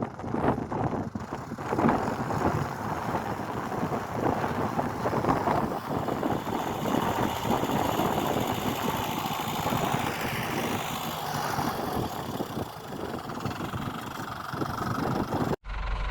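A vehicle engine running, with wind buffeting the microphone. The sound cuts off abruptly near the end.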